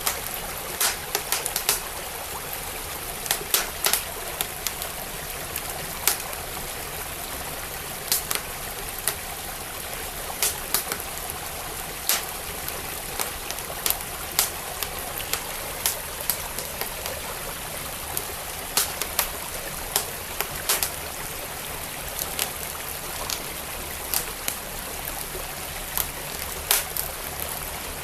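Wood fire crackling, with irregular sharp pops and snaps, some in quick clusters, over the steady rush of a flowing stream.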